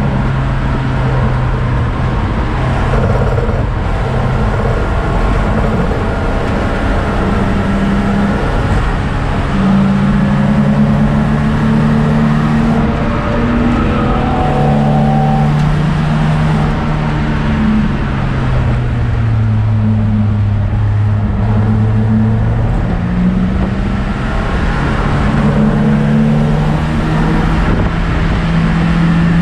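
BMW M42B18 1.8-litre four-cylinder engine in a stripped E30 318i, driven hard on track and heard from inside the caged cabin. Its note repeatedly climbs and drops in pitch, over steady road and wind noise.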